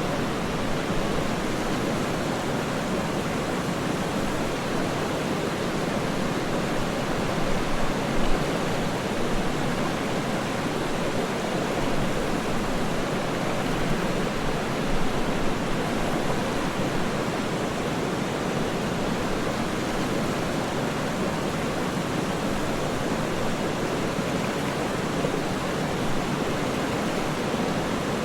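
Waterfall rushing steadily: an even, deep-toned hiss of falling water with no breaks.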